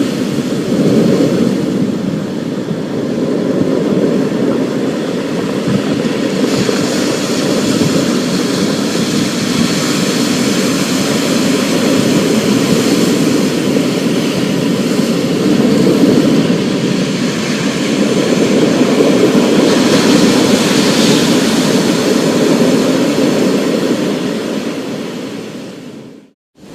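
Storm sound: a steady, loud rushing roar, heaviest in the low range with a hiss of rain above. It fades out to a moment's silence just before the end.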